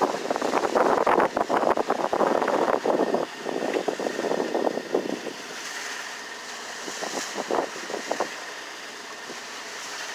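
Wind and water noise on a sailboat underway in choppy water. Irregular gusty rushing and splashing for about the first half, settling to a quieter steady hiss with a few brief gusts near the end.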